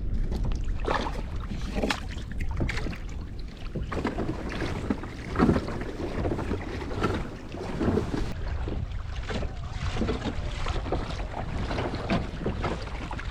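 A kayak moving across the bay, water splashing and lapping irregularly against its hull, with wind buffeting the microphone.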